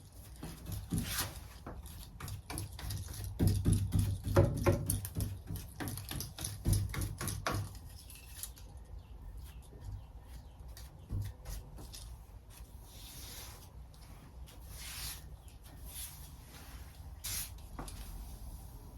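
Paintbrush stroking top coat onto a wooden butcher block countertop: quick, irregular scratchy brush strokes, busiest in the first half with a few low knocks, then sparser swishes.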